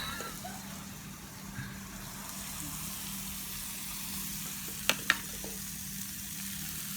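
Hot pot of soup and noodles simmering at the table, a steady bubbling hiss over a low hum. Two sharp clicks come about five seconds in.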